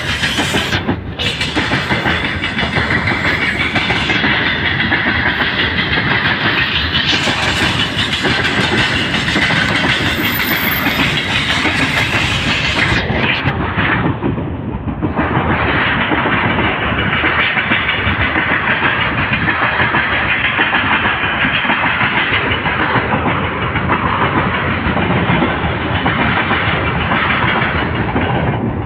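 Freight train rolling past, its wagons' wheels clattering steadily over the rail joints.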